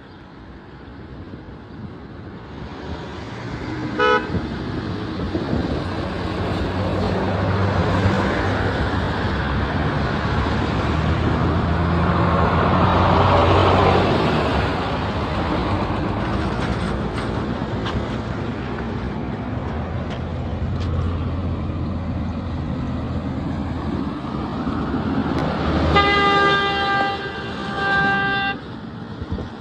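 Road traffic passing close by, engines running, with one vehicle going by loudest about halfway through. A vehicle horn gives a short toot about four seconds in, and a longer honk sounds near the end.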